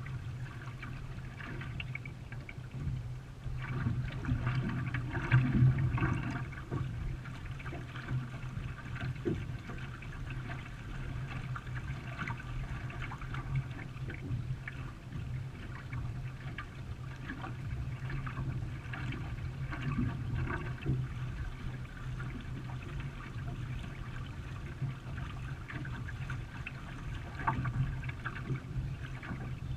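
Canoe paddles dipping into and pulling through river water, with splashing and trickling, over a steady low hum. The water is a little louder about four to six seconds in.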